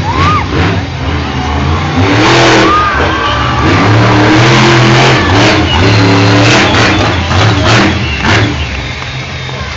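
A monster truck's engine revving hard, loud, its pitch climbing and dropping again and again as the truck runs on the track.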